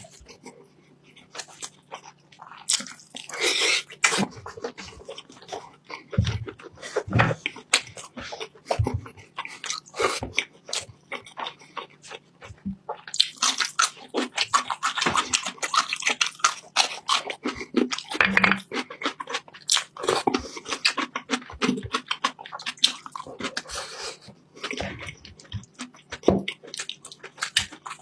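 Close-miked eating sounds: chewing of beef and pork calderita stew, with many rapid wet mouth clicks and a few louder, noisier spells, one near the start and a longer one a little past the middle.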